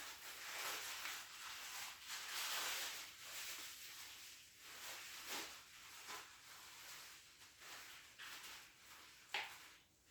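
Plastic slime container and lid being handled and pressed, with rustling and scraping and a sharp click near the end, as the lid refuses to close.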